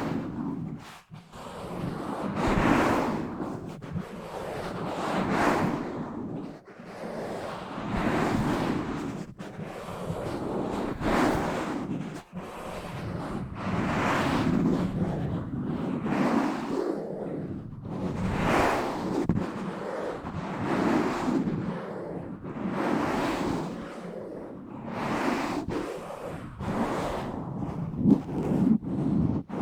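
Fingers scratching and rubbing fast and roughly right on a bare microphone, a loud rasping noise that swells and fades every two to three seconds, with sharp clicks from the contact scattered through it.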